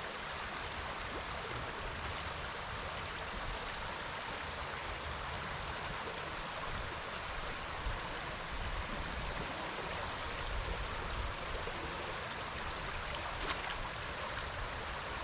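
A river flowing steadily, an even rush of running water.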